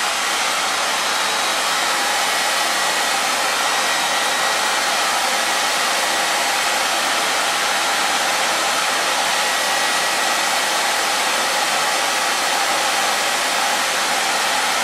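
Handheld hair dryer running steadily: an even rushing blow of air with a faint thin whine from the motor.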